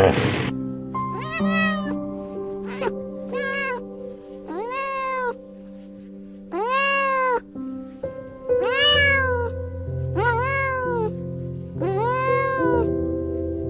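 Domestic cat meowing about eight times, each meow rising and then falling in pitch, over soft background music with steady sustained tones.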